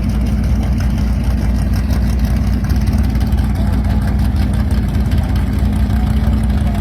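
Car engine idling steadily, its pitch holding level without revs.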